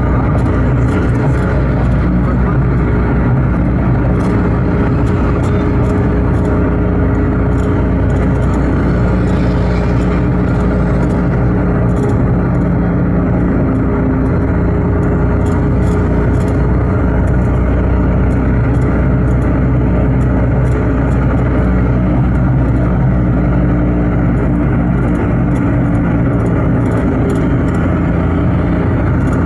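A car being driven: steady engine and road noise, with the engine's pitch shifting slowly now and then.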